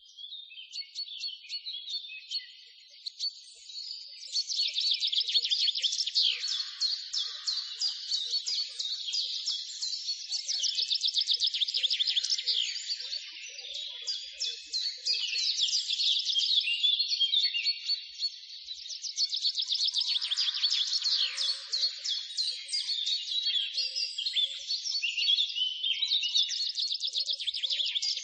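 Small songbirds chirping and trilling in dense, overlapping runs of rapid high-pitched notes, with louder phrases and brief lulls between them.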